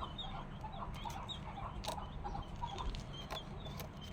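Young poultry chicks peeping continuously, many short high chirps overlapping, with a few sharp clicks and a steady low hum underneath.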